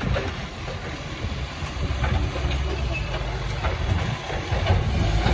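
Garbage truck's diesel engine running at low revs, with scattered knocks and clatter.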